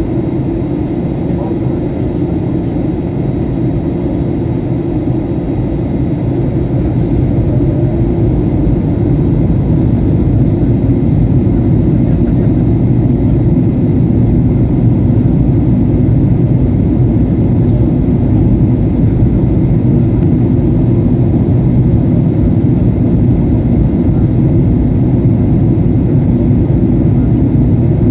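Steady low rumble of a jet airliner's engines and airflow, heard from inside the passenger cabin. It grows a little louder about eight seconds in.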